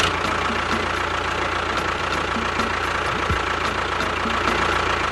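A small motor running steadily, with a thin constant whine over an even mechanical whirr.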